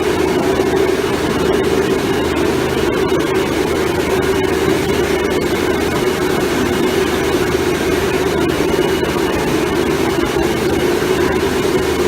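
A machine motor running steadily, a constant loud hum over a broad rushing noise with no change.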